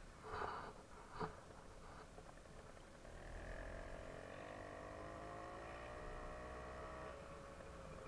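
Two brief noises near the start, then a faint engine running from about three seconds in, its pitch rising slowly for about four seconds before it fades back.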